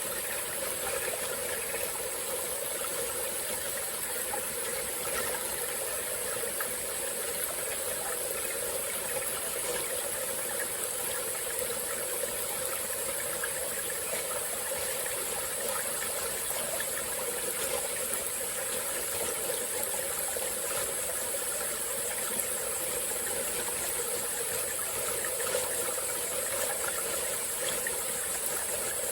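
Small forest stream flowing steadily, with a constant high-pitched insect drone over the water sound.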